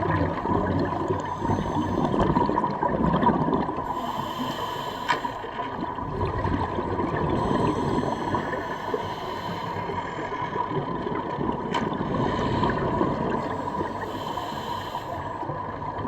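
Underwater recording of a scuba diver's bubbling, gurgling breaths through a regulator, with exhaled bubbles rising about every five seconds.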